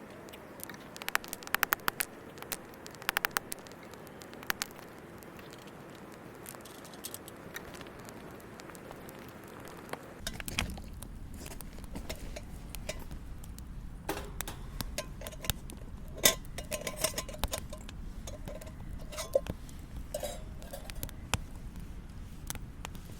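Camping gear being handled while setting up a campfire: scattered sharp clinks and taps, some with a brief ring. About ten seconds in, a steady low rumble joins under the taps.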